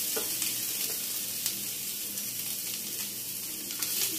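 Ginger paste and chopped green chillies sizzling in hot oil in a frying pan, a steady hiss as they brown lightly.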